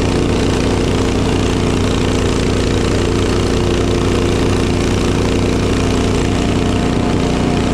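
Small gasoline engine of a snow-clearing machine running steadily at an even speed.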